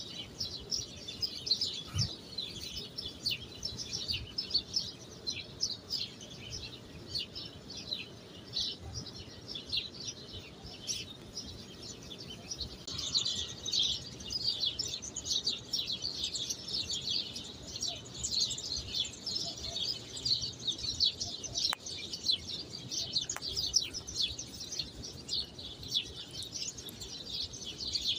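Many small birds chirping in a continuous, dense chorus of short high chirps.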